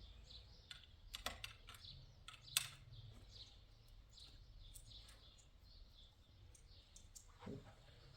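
A few faint, scattered clicks and light taps, the sharpest about two and a half seconds in, with faint bird chirps behind them.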